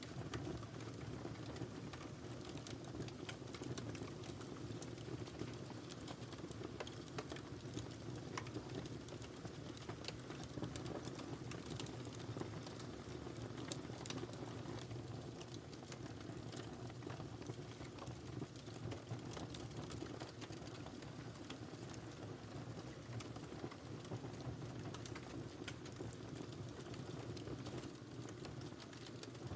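Wood fire crackling in a fireplace: a dense, irregular run of small snaps and pops over a steady low rumble of flame.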